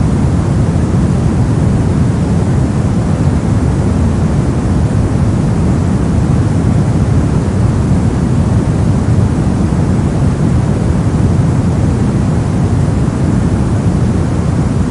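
Continuous synthetic noise of the white-noise sleep-track kind: an even, unchanging rush, deep-toned, with most of its weight low down.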